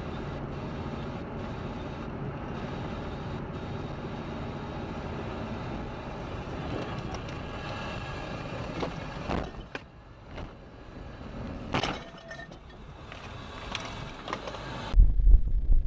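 A car on the road, with steady engine and tyre noise. A few sharp knocks come about two-thirds of the way through. Near the end the sound switches abruptly to a loud low rumble.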